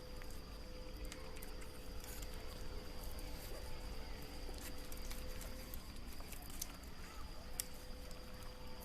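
Faint outdoor forest ambience: a steady high insect-like whine over a lower steady hum, with scattered small clicks and snaps.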